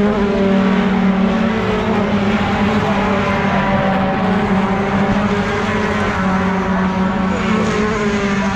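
Racing pickup truck engine running at steady high revs, one strong continuous pitched note that barely changes.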